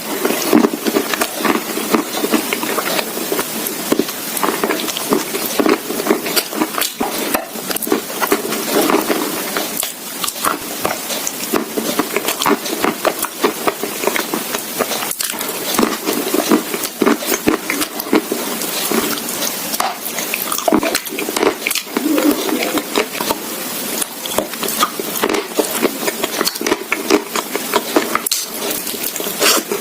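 Close-miked crunching and chewing of a brittle, porous bite, a dense irregular run of cracks and crumbling crunches.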